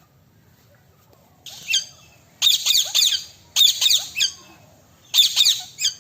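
Parrots screeching in four quick bouts of sharp, high-pitched calls, each a rapid run of several notes, starting about a second and a half in.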